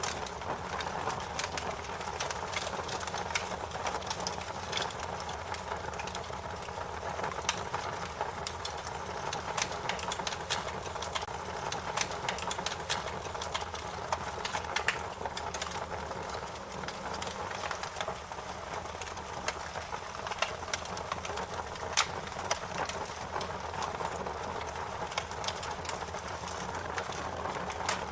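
Fire crackling: a steady hiss with frequent irregular pops and snaps, one sharper pop about two-thirds of the way through.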